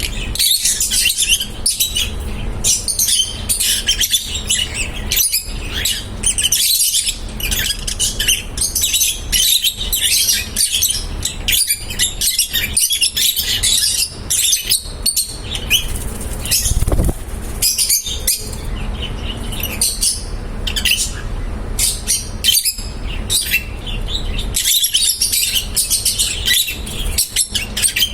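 Lovebirds chirping: many rapid, high chirps from several birds overlapping without a break, over a low rumble.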